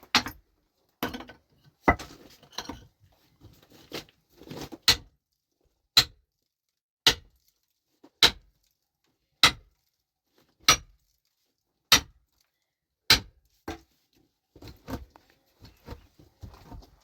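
A metal hand tool striking rock over and over to break it up. The blows come in sharp strikes, irregular at first, then a steady run about a second apart, then lighter knocks near the end.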